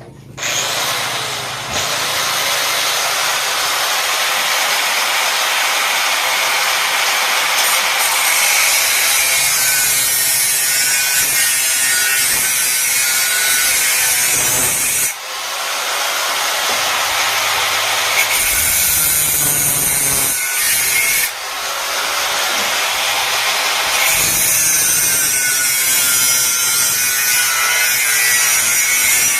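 Handheld power tool cutting under load, running almost continuously with two brief breaks, about halfway through and a few seconds later.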